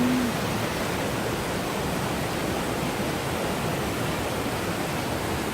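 Paraeso Falls, a mountain waterfall, pouring into its plunge pool: a steady, loud rush of falling water that is enough to drown out speech.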